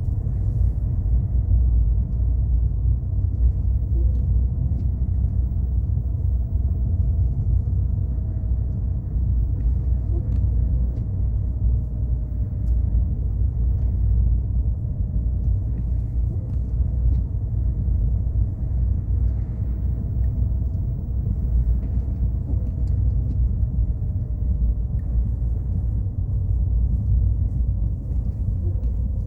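A car driving with a steady low rumble of engine and road noise, and a faint, steady whine above it.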